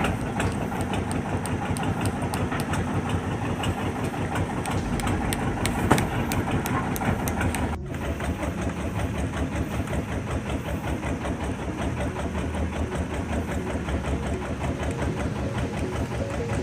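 Speedboat engine running steadily, with a brief cut in the sound a little before halfway.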